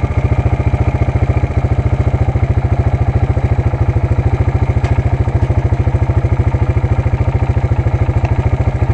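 An ATV engine running at a steady speed, with an even, rapid low pulsing that does not change.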